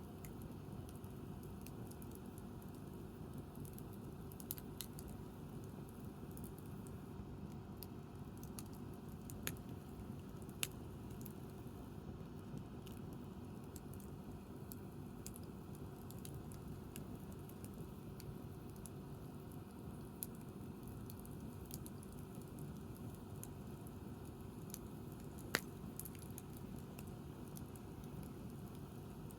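Wood campfire burning with a steady low rush and scattered sharp pops and crackles, the loudest about 25 seconds in.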